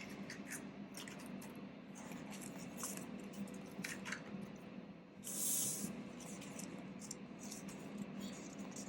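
Faint rustling and crackling of paper banknotes being handled, with a short hissing swish about five seconds in, over the steady low hum of an air fryer running.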